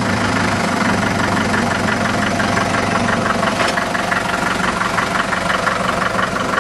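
A 1954 Farmall Super MTA tractor's four-cylinder diesel engine running steadily at a raised idle, with an even diesel clatter.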